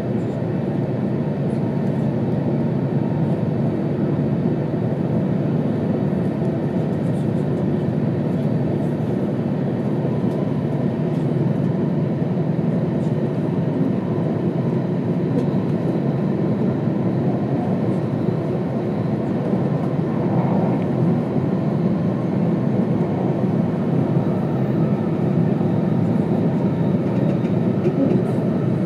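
JR East E2 series Shinkansen running at speed, heard from inside the passenger cabin as a steady low rumble.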